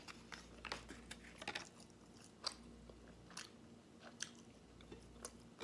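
A person biting and chewing chicken nuggets close to the microphone: soft crunches and mouth clicks at irregular intervals.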